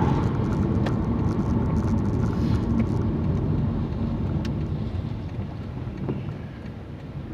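Car driving, with steady engine and road rumble heard from inside the cabin.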